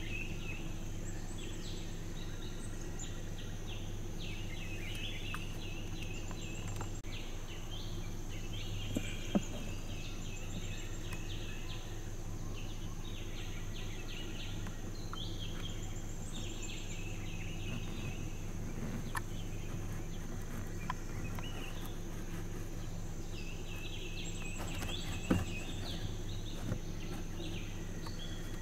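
Birds calling in the forest: short, repeated chattering bursts of calls coming and going over a steady low hum, with a few sharp clicks.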